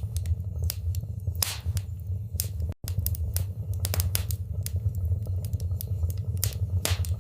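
Wood fire crackling in a fireplace: irregular sharp pops and snaps over a steady low rumble, with the sound cutting out for an instant about three seconds in.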